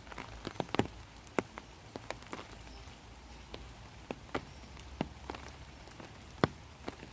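Rain falling, with separate heavy drops landing close by at irregular intervals, one louder drop near the end.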